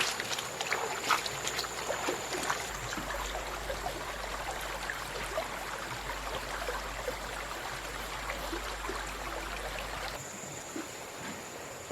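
Water running and trickling, dotted with many small splashes and clicks, dropping off about ten seconds in.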